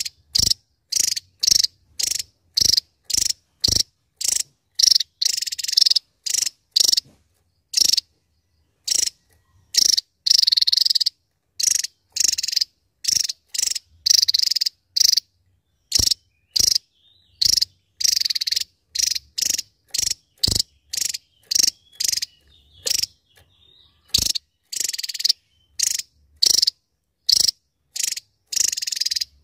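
Javan tesia singing: a fast run of short, high, sharp notes, about two to three a second, with a few longer phrases between.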